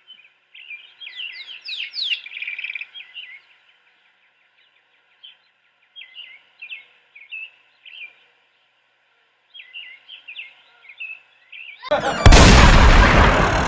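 Small songbirds chirping and trilling in short clusters with quiet gaps between them. About twelve seconds in, a sudden, very loud blast of noise cuts in and drowns out the birds.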